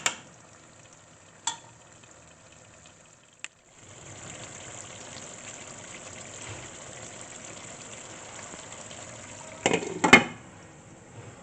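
Food frying in oil in a cooking pot: a steady sizzle that starts about four seconds in, after a couple of light clicks, with a brief clatter near the end.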